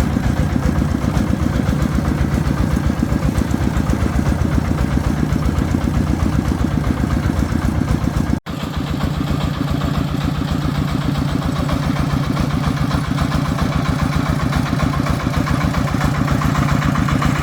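Agricultural truck's engine running steadily with a rapid, even chugging beat, broken once by a momentary dropout about halfway through.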